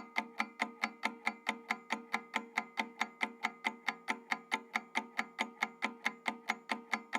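Clock-like ticking timer sound effect, an even run of about five ticks a second over a steady held tone.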